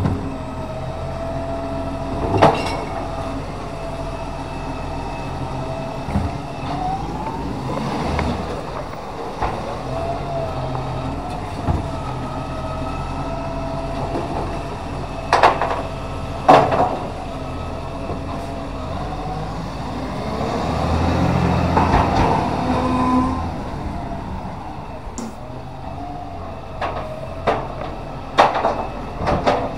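Side-loader recycling garbage truck at work: its engine and hydraulics run with a steady, wavering whine, broken by several sharp loud bangs from bins and the lifting arm. The noise swells for a few seconds about twenty seconds in.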